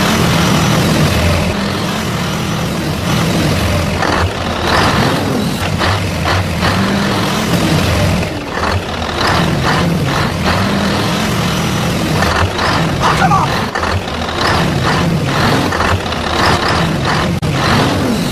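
Truck-like engine running steadily, its low drone wavering, with scattered knocks and scrapes throughout.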